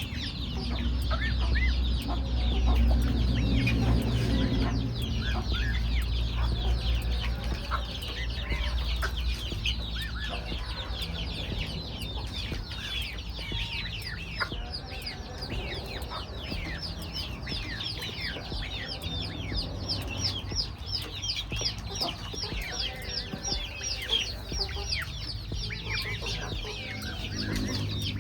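Chickens clucking, over a dense, continuous stream of short, high chirps. A low rumble sits under the first several seconds.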